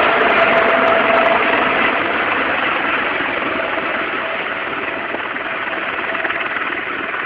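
Helicopter engine and rotor noise: a steady, dense rush that slowly gets quieter.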